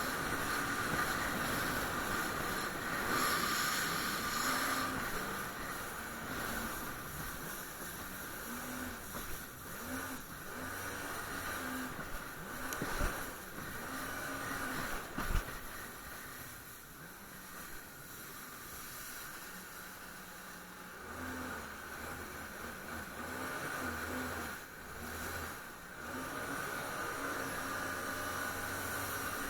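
Jet ski engine running with steady hissing wind and water noise as it rides over the sea, its pitch rising and falling in short stretches. Two sharp knocks stand out about halfway through.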